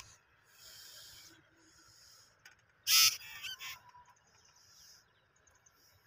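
Raspy calls from two small black birds fighting on the ground: faint rasps in the first two seconds, then a loud harsh burst about three seconds in, followed by a few shorter ones.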